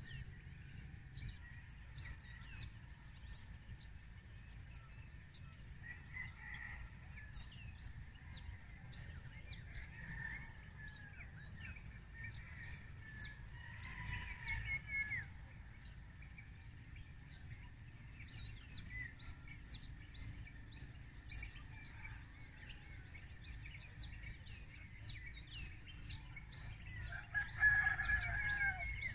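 Small birds chirping in quick, high, repeated notes, with a few lower calls and a low steady rumble underneath; one louder, lower call stands out near the end.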